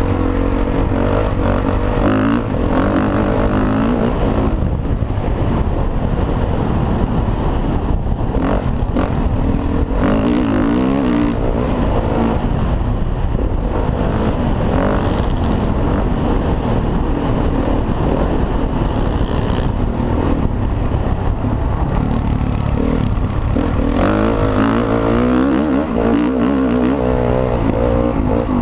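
Motocross dirt bike engines revving up and down through the throttle on a dirt track, loud and continuous, with a low rumble underneath.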